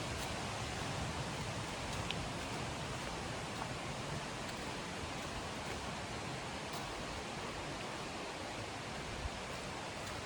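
River water running in a steady, even rush, with a few faint clicks over it.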